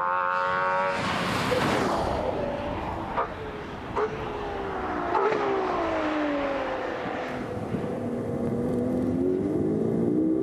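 Ferrari 812 Competizione's naturally aspirated V12 running at high revs, then coming off the throttle about a second in. Its pitch falls steadily through several downshifts, each marked by a sharp crack and a short rise in revs, before it picks up again near the end.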